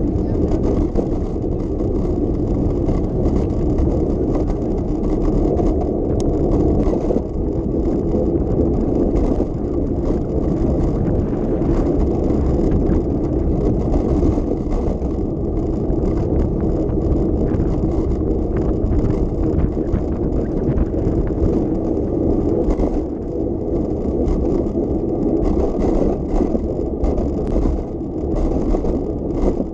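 A bicycle ridden over city streets: a steady low rumble of tyres on the road, with light rattles and clicks from the bike.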